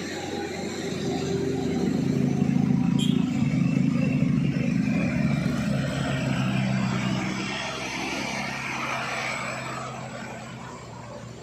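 Heavy loaded truck's diesel engine pulling hard up a steep climb, growing louder as it passes close by and then fading away.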